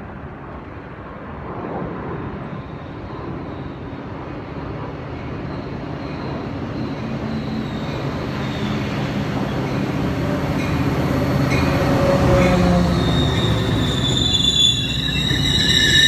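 Metra commuter train approaching, its rumble growing steadily louder. High-pitched wheel squeal sets in about two seconds before the end.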